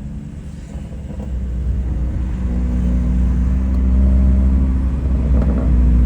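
Car engine and exhaust running with a low, steady drone that grows louder over the first three seconds or so and then holds.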